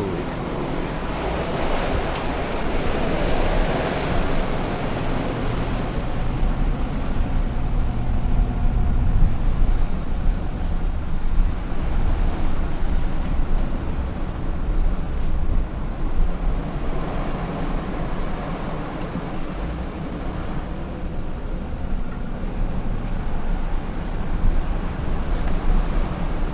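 Strong wind gusting and buffeting the microphone through an open car window, over the low rumble of the car driving. The loudness swells and falls with the gusts.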